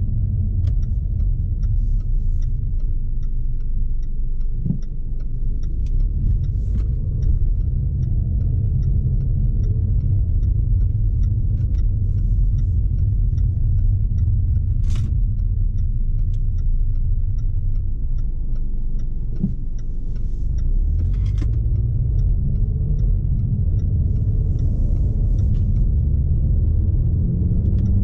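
Cabin sound of a 2020 Jaguar XE P300 on the move: a steady low rumble of road noise and its 2.0-liter turbocharged four-cylinder. A regular light ticking runs over the rumble, and there is a sharp click about fifteen seconds in.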